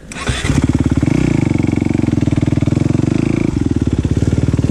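Enduro motorcycle engine starting up suddenly close by, then running at a steady speed with an even, rapid beat.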